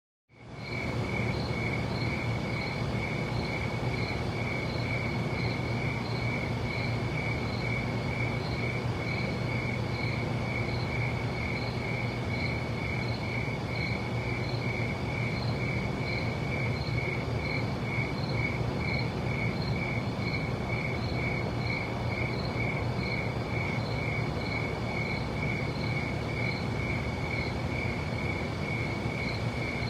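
Night ambience of a cricket chirping steadily, a high pulsing note repeating about twice a second, over a constant hiss and low hum; it fades in right at the start.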